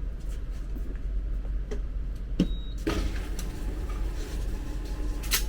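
A few sharp clicks and knocks over a steady low hum: the loudest comes about two and a half seconds in, and another sharp one near the end.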